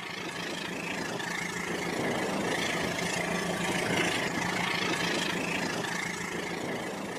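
Rail King toy train running with a steady, even mechanical hum.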